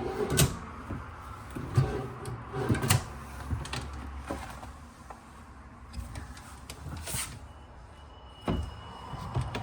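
Kitchen cabinet doors and drawers being opened and shut: several separate knocks and clicks at irregular intervals.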